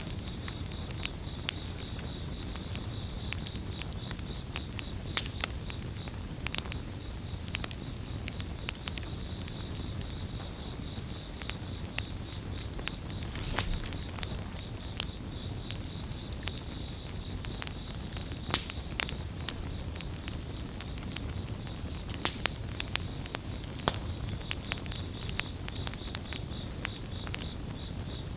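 Campfire burning: frequent sharp crackles and pops of varied loudness over a low steady rumble of the flames. A cricket trills steadily at a high pitch throughout.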